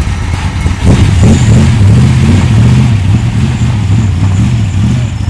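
BriSCA F1 stock car's V8 engine running loud, getting sharply louder about a second in and then wavering up and down in pitch as the throttle is blipped.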